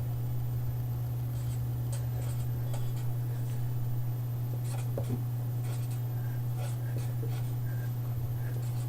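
Marker drawing squiggles on a folded sheet of paper: irregular short scratchy strokes with a few brief squeaks, over a steady low hum.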